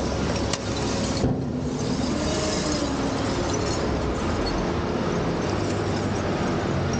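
Heavy diesel truck engine running steadily, its pitch shifting a little about a second in, with a sharp click about half a second in.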